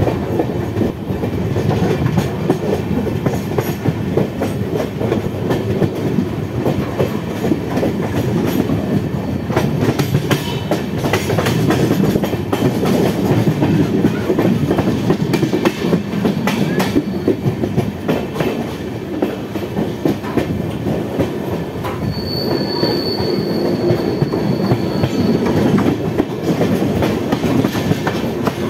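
Passenger train running on the rails, heard from on board: a steady rumble of wheels on track with repeated clicks over rail joints and points. About three quarters of the way through, a high wheel squeal rises above it for a few seconds.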